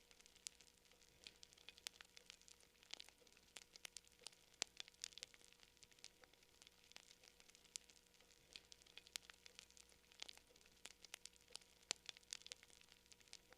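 Campfire crackling: irregular sharp pops and snaps, several a second, some louder than the rest.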